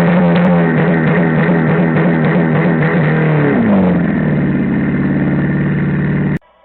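A motor vehicle engine running loud and high, steady in pitch. About three and a half seconds in its pitch drops as the revs fall. The sound cuts off abruptly near the end.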